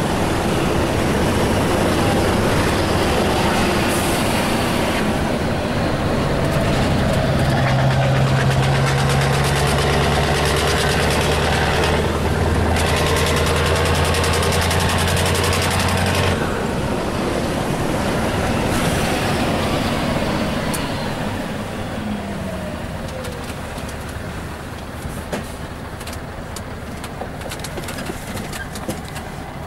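Scania R-series truck engine with an open, free-flowing exhaust, pulling hard under load with a deep steady note and brief breaks in it. Past the middle it eases off, the pitch falling and the sound growing quieter.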